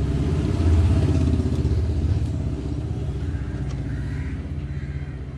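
A motorcycle engine running with a fast, even pulse, swelling about a second in and then slowly fading.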